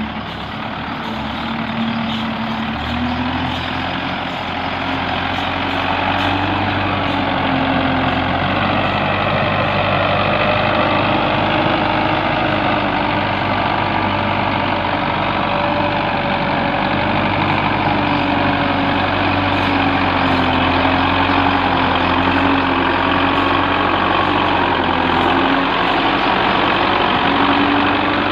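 Tractor engine running steadily, its pitch wavering slightly as the engine speed shifts, growing louder over the first few seconds and then holding.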